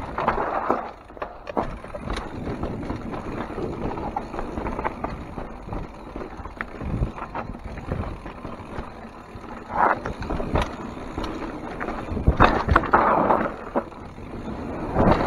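Mountain bike riding down a rough, rocky downhill trail: tyres rolling over dirt and rock, with scattered sharp knocks and rattles from the bike, the loudest a little past the middle and near the end.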